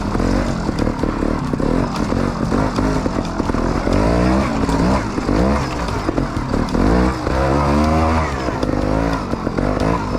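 Gas Gas trials motorcycle engine in first gear, revving up and falling back again and again as the throttle is worked through a trials section, with the longest, highest rev about three-quarters of the way in.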